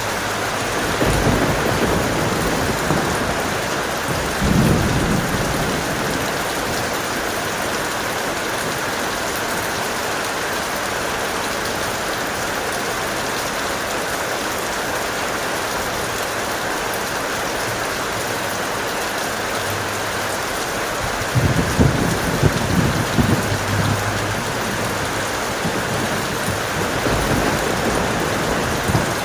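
Steady heavy rain with rumbles of thunder: a short one about a second in, another around four seconds, and a longer, louder rolling clap about two-thirds of the way through.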